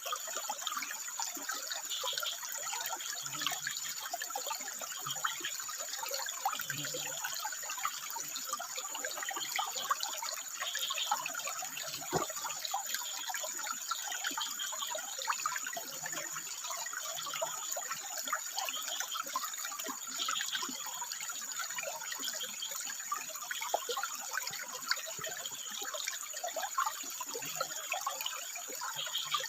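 Water trickling and splashing steadily over rocks, with frogs calling in short bursts now and then.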